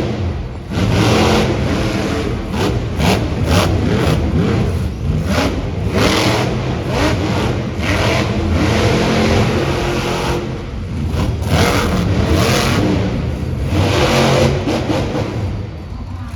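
Monster truck engines revving in repeated surges over a steady low engine drone.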